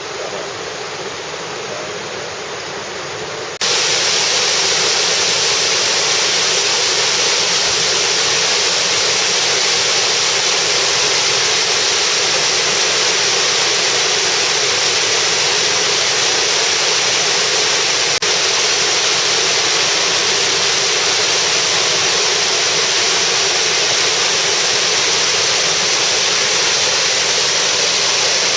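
Steady rush of water falling from a large waterfall, a dense, even noise that becomes abruptly louder about three and a half seconds in.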